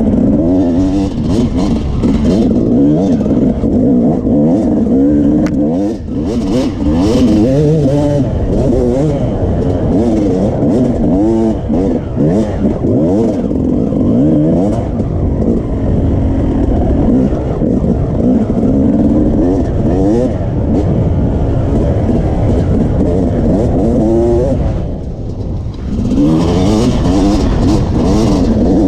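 Two-stroke engine of a Yamaha YZ250 dirt bike being ridden hard, its revs rising and falling over and over. About 25 seconds in the throttle shuts briefly and the engine note drops, then it revs up again.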